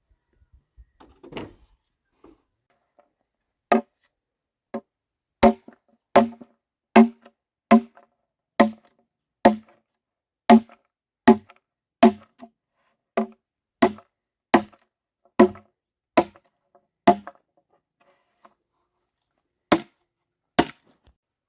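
A tool striking wood again and again, about one blow a second, each a sharp knock with a short ringing tail. There is a pause near the end, then two more blows.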